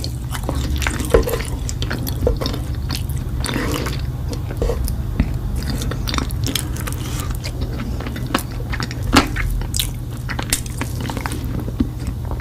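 Close-up chewing and biting of raw honeycomb, with sticky wax crunching and squishing in many small, irregular wet clicks, over a steady low hum.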